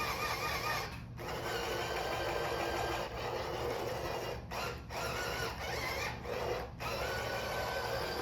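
Toy RC cars' electric motors and gearboxes whirring under throttle, their whine wavering in pitch, cutting out briefly a few times as the throttle is let off.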